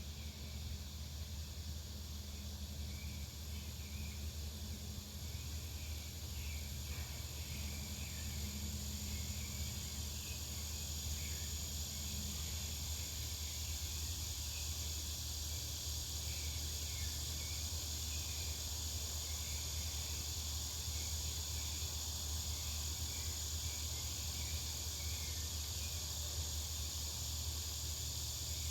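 Back-yard ambience: a steady high-pitched insect chorus with scattered short chirps, over a low steady rumble of distant traffic. A low droning tone fades out about twelve seconds in.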